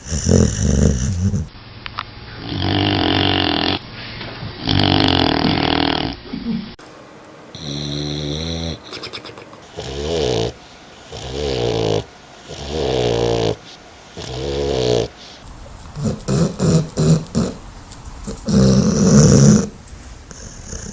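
Dog snoring: a run of loud snores, one every one to two seconds, some with a pitched, wheezing tone. The sound changes character several times as one recording gives way to another.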